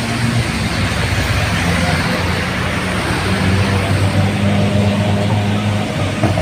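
Intercity bus's diesel engine running with a low, steady hum that shifts slightly in pitch as it departs, over an even hiss of rain and road noise.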